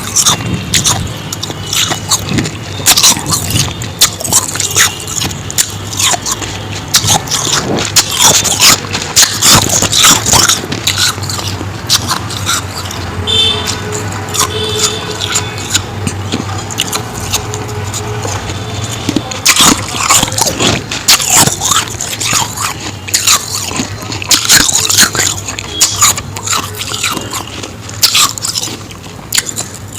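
Close-miked biting and chewing of powdery ice: dense, irregular crunches that keep on throughout.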